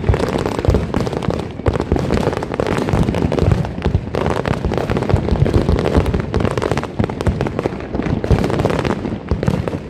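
Dense, continuous crackling and banging of many fireworks and firecrackers going off at once, a rapid barrage of sharp cracks with low booms under it.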